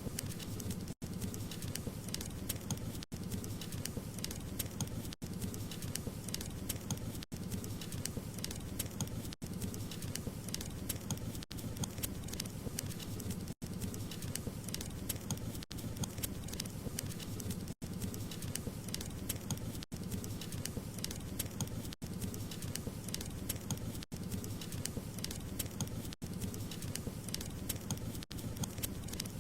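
Burning wood fire crackling: dense small pops and snaps over a low, steady rumble of flame, with very brief dropouts about every two seconds.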